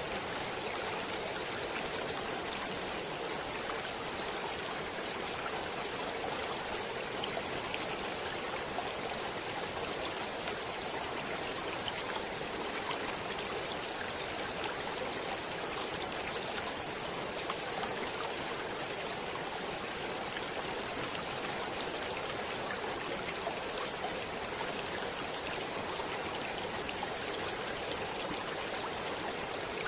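Running water of a stream flowing steadily, an even rushing wash with faint small splashes.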